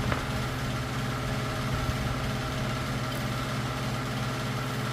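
Electric shop fan running with a steady hum.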